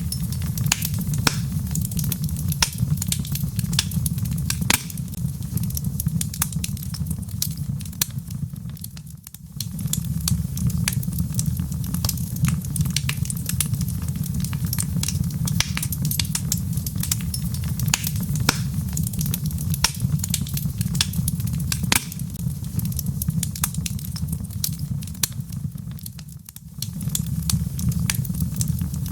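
Log fire burning in a fireplace: dense, irregular crackles and sharp pops from the burning wood over a steady low rumble of the flames. The whole sound briefly drops away twice, about nine seconds in and again near the end.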